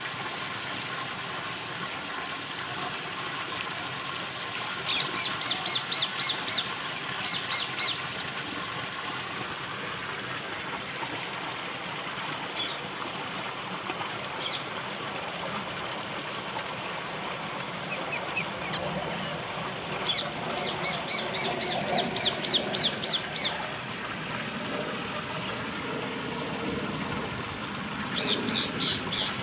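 Ringneck parakeet calling in several runs of quick, repeated high calls over a steady hiss of spraying shower water.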